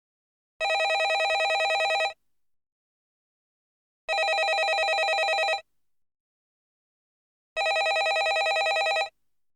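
Landline telephone ringing: three rings of about a second and a half each, with a fast trill in every ring and a pause of about two seconds between them.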